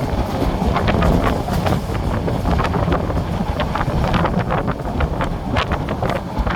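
A moving train: a steady low rumble with wind buffeting the microphone, broken by frequent irregular sharp clacks and rattles.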